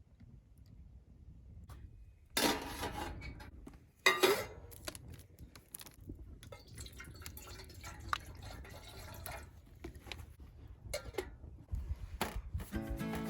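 Cookware and utensils being handled: loud clattering knocks about two and four seconds in, then scattered small clinks and scraping, with some liquid poured or dripping.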